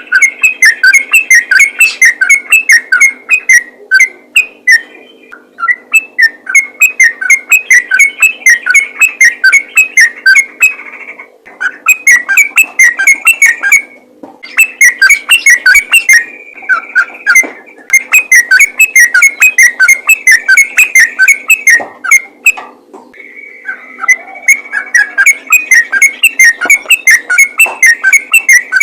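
Yellow-vented bulbul (trucukan) singing in rapid, continuous 'ropel' runs: fast repeated whistled and chattering notes, several a second, in long phrases broken by short pauses every few seconds. A faint steady hum runs underneath.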